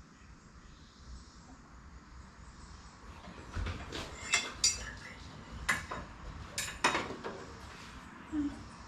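Steel lawn mower blade clinking and clanking against metal as it is handled and checked for balance: a series of sharp, ringing metallic clinks starting about three and a half seconds in.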